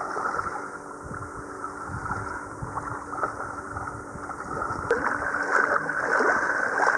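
Sea water lapping and splashing around people wading in the shallows, with wind on the microphone; it grows louder after about five seconds.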